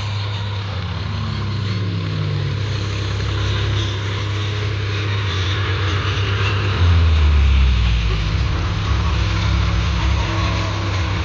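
Sonalika tractor's diesel engine running steadily while pulling a plough. About seven seconds in, its note drops lower and gets louder.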